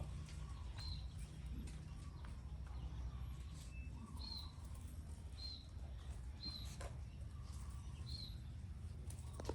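A bird giving short, high chirps, about five at irregular intervals, over a steady low hum.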